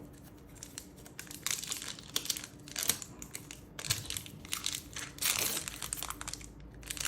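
Trading card booster pack wrapper crinkling as it is handled and torn open, in several irregular bursts starting about a second in.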